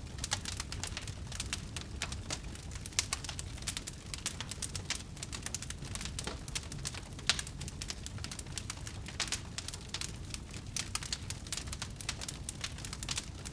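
Wood fire burning in a fireplace, crackling with many irregular pops and snaps over a low steady rumble of the flames.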